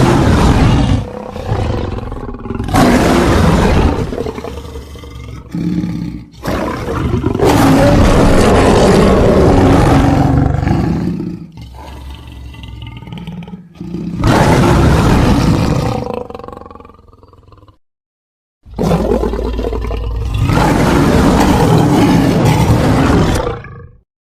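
A run of big-cat roar sound effects, lion and tiger roars edited together as one creature's voice: about six long, rough roars back to back, the last following a second of silence.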